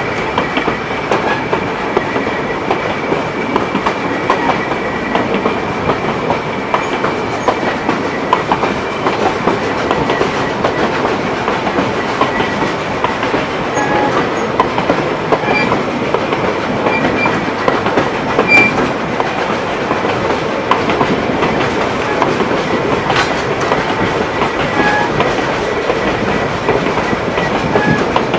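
Narrow-gauge passenger car rolling along at speed behind a steam locomotive: a steady rush of wheel and track noise, with the clickety-clack of wheels over rail joints.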